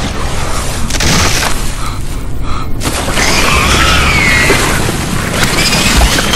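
Stormy-sea sound effects: a steady rush of wind and waves with deep booms. From about three seconds in, wavering high tones glide over the noise.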